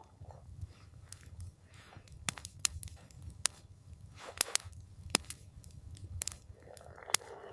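Wood campfire crackling, with about ten sharp, irregular pops over a low, steady rumble.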